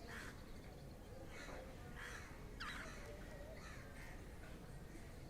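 Budgerigars giving a run of short, harsh squawking calls, about one every half second to second.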